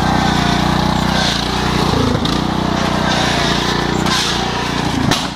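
Lawn tractor engine running steadily, its pitch dipping briefly about two seconds in and again near the end.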